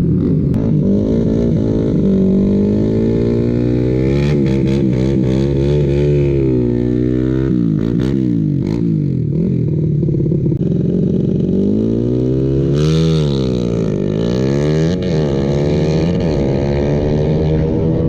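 Motorcycle engines revving hard, their pitch climbing and dropping over and over, with more than one engine heard at once at times.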